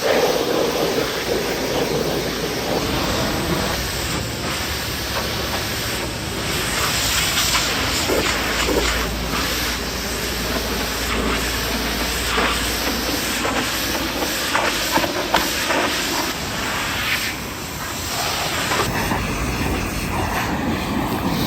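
Pressure washer jet spraying water against a truck's bodywork, a steady loud hiss that shifts in tone as the spray moves over the surface.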